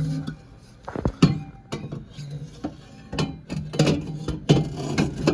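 Mild steel exhaust downpipe clanking and clinking against metal as it is worked into place for a test fit, about ten irregular sharp knocks.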